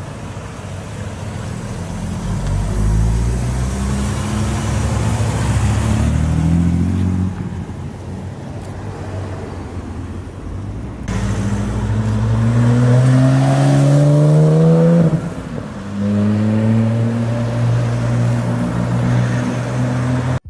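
Go-kart engine accelerating in long rising pulls, the pitch dropping off twice as the throttle eases, then climbing again.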